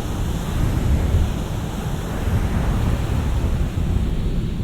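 Big shore-break surf breaking and washing up the beach in a steady, heavy rush of water, with wind buffeting the microphone.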